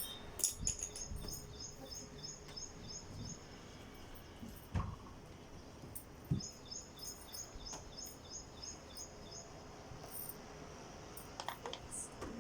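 Background chirping: two runs of rapid high chirps, about five a second, each lasting around three seconds, one near the start and one from past the middle. A few faint low knocks sound in between.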